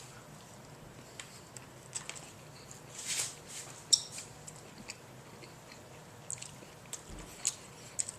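A person chewing a mouthful of breakfast taco with hot sauce: quiet mouth noises with scattered small clicks, and brief louder bursts about three and four seconds in.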